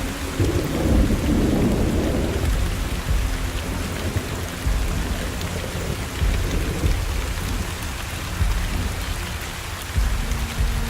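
Steady hiss of heavy rain with irregular deep rumbles, strongest about a second in.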